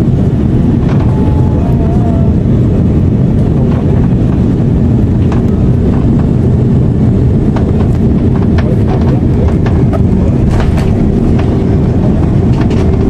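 Loud steady rumble inside the cabin of an Airbus A330-343 with Rolls-Royce engines, the aircraft in motion near landing, with frequent rattling clicks from the cabin fittings.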